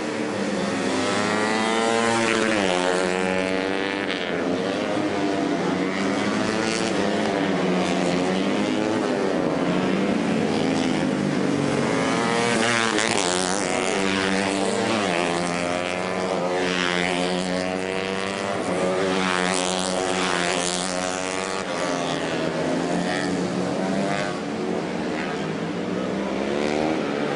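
Several racing motorcycle engines revving up and down together as they race past, their pitches rising and falling and overlapping.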